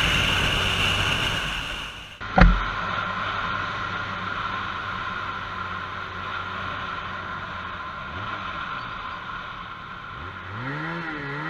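Motorcycle riding noise, a steady engine and road hum, broken about two seconds in by a single sharp knock. A pitched sound rises and falls near the end.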